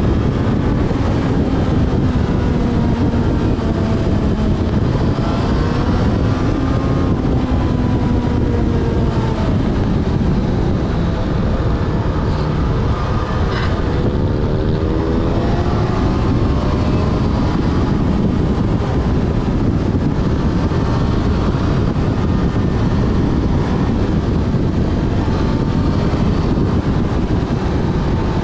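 Yamaha Fazer FZ6S inline-four engine running on the move, its pitch rising and falling as the revs change, under heavy wind rush over the camera. A single short click comes about halfway through.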